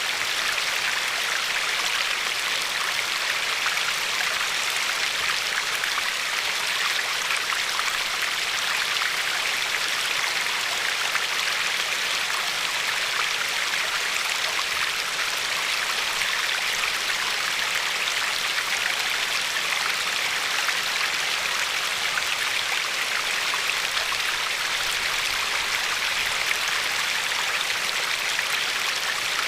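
Glacier-fed river flowing and lapping over pebbles: a steady, even rush of water with fine splashy detail and no change.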